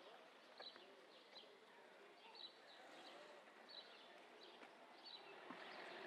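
Faint outdoor ambience under trees, with a small bird giving short high chirps about once a second.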